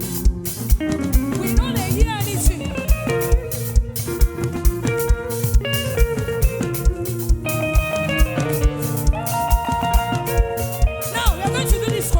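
Live band music: a steady kick-drum beat under sustained chords and guitar, with a few sliding melodic lines near the start and the end.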